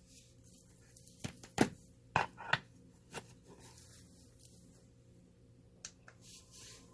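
A handheld mirror fan with a smartphone stand being handled: a series of sharp plastic clicks and knocks, several close together in the first few seconds and one more near the end, over a faint steady hum.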